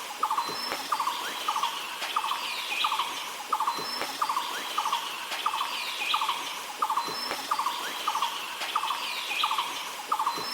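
Forest animal chorus: a short buzzy chirp repeats evenly, a little more than twice a second, under higher bird chirps and brief thin whistles.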